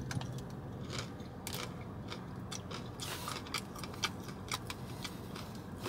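Crunching bites and chewing of a crispy ramen-coated Korean corn dog: a string of short, sharp crunches, thickest in the second half.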